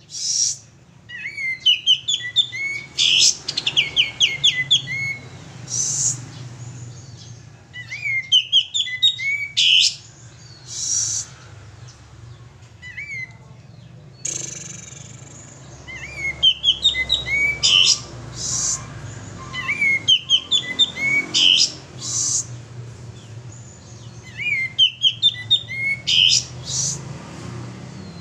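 Male kapas tembak songbird singing loudly in repeated bursts of rapid chirps and trills, a phrase every few seconds. A steady low hum runs underneath.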